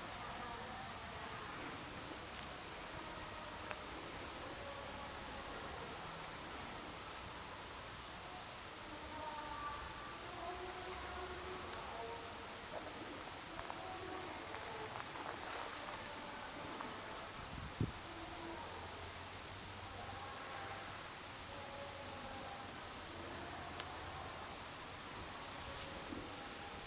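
Insects chirping in a steady high-pitched trill, with one soft knock about two-thirds of the way through.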